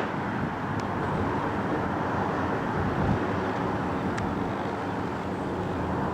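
Steady rush of jet engine noise from a Boeing 737-800's two CFM56 turbofans as the airliner passes, holding an even level throughout.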